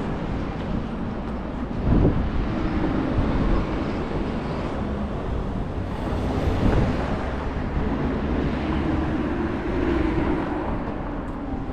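Wind gusting on the microphone over city street noise with traffic passing.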